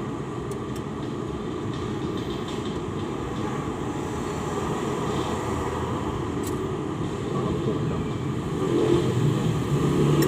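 Steady low rumble of a running motor vehicle that grows louder near the end, with a few faint clicks.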